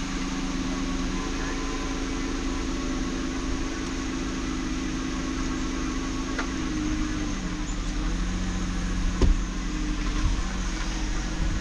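A car engine running steadily, its note stepping down in pitch about seven seconds in. A single click sounds about nine seconds in.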